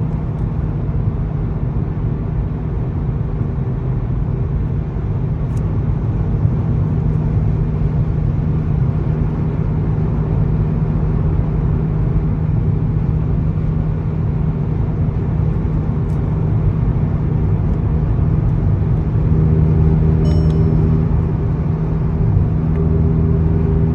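Highway exhaust drone heard inside the car's cabin: a steady low hum from a TCR aftermarket muffler with downpipe over road and tyre noise. About three-quarters of the way through, the drone grows stronger and more even as the engine sits around 2,300–2,400 rpm, right in its drone zone.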